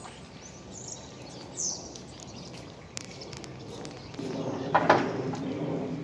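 Birds chirping in short high calls over steady outdoor ambience. Near the end there is a louder spell with a sharp, brief peak.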